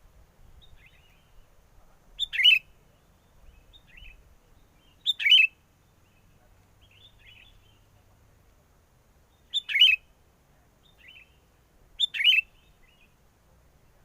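Sooty-headed bulbul calls: four loud, short chattering calls a few seconds apart, each a quick double note, with fainter bulbul calls in between from farther off.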